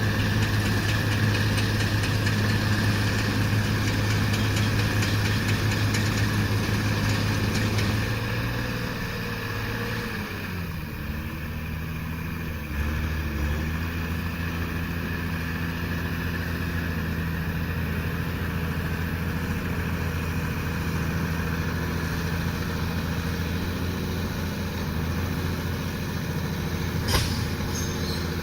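Allis Chalmers 190XT tractor engine running steadily, then dropping in pitch about eight seconds in as it is throttled back, and settling into a lower, steady run. There is a single sharp click near the end.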